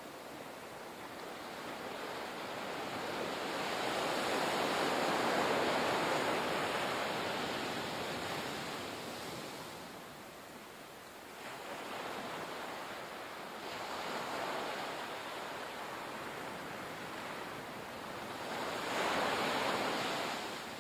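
Ocean surf breaking and washing ashore in rising and falling surges, with the largest swell about five seconds in and another just before the end.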